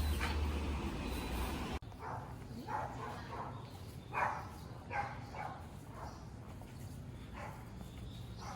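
Wind rumble on the microphone for the first couple of seconds, then a dog barking several times in short, irregular yaps.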